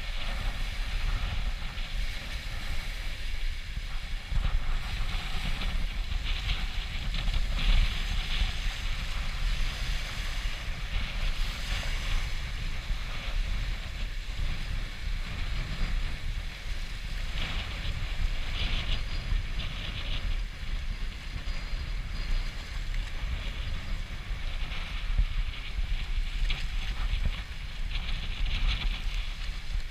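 Storm wind buffeting the microphone with a steady low rumble, over river waves splashing and washing against a boat launch in irregular surges every few seconds.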